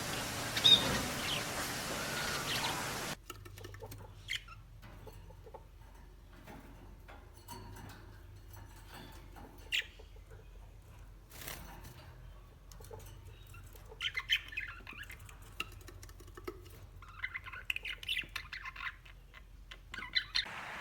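Small birds chirping and squawking. A louder, busier stretch cuts off abruptly about three seconds in, leaving scattered chirps and light clicks, with two short bursts of twittering in the later part.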